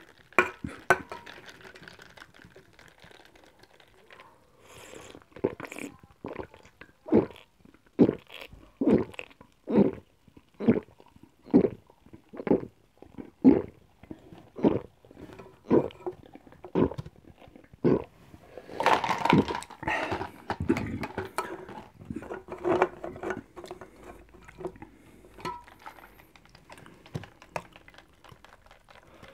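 A person gulping carbonated cola close to the microphone, with swallows coming about once a second. About two-thirds of the way through there is a longer, louder noisy sound, then more gulps at an uneven pace.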